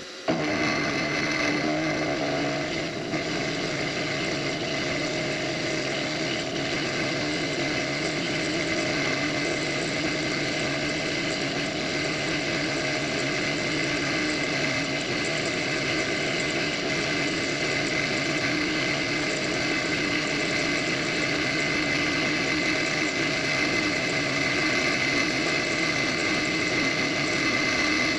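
Benchtop milling machine switching on at the start and running steadily as a chamfering tool cuts along the edge of an aluminium block, with a steady high whine over the motor noise.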